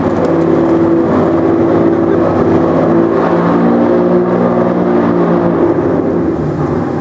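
Lamborghini Diablo SV's V12 engine idling loudly, its pitch lifting slightly about three seconds in and settling back near the end.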